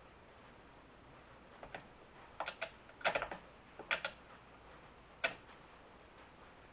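Sharp metal clicks and clinks in a few irregular clusters as the bar nut is tightened on a Homelite XL chainsaw's bar and chain.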